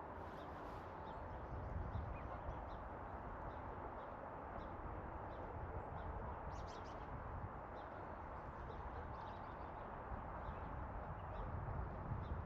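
Scattered short, high bird chirps, with a small cluster about halfway through, over a steady low background hiss and rumble.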